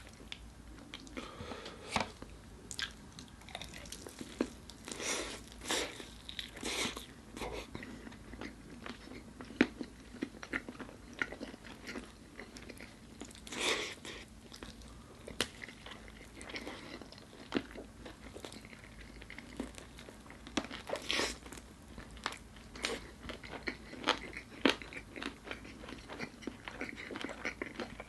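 Close-miked eating: crisp fried chicken coating crunching and crackling under the teeth, in irregular bites and chews.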